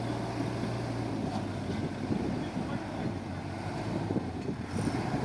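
Diesel engine of earthmoving machinery running, with a steady low hum that eases about a second in and gives way to a rough, uneven rumble, mixed with wind noise on the microphone.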